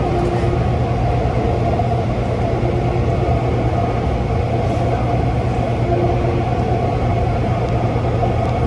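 Taichung MRT Green Line train running at speed between stations: a steady low rumble with a steady motor whine on top, and a brief higher tone that comes back every few seconds.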